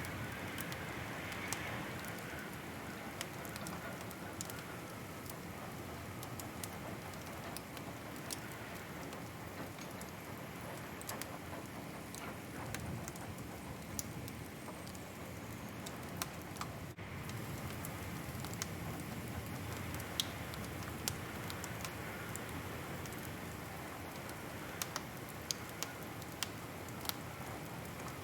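Wood fire crackling in a fireplace: irregular sharp pops and snaps over a steady soft rushing hiss, with a few louder pops in quick succession near the end.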